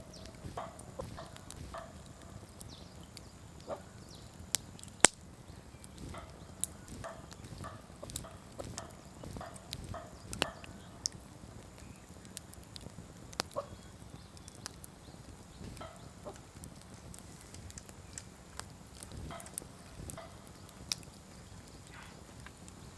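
Wood campfire crackling, with irregular sharp pops and snaps throughout; the loudest pop is about five seconds in.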